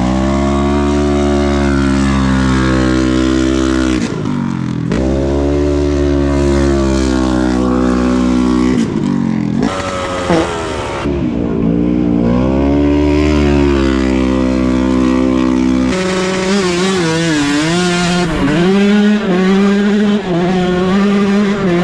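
Dirt bike engine being ridden hard, revving up and dropping back several times, with the pitch falling away about four, nine and sixteen seconds in.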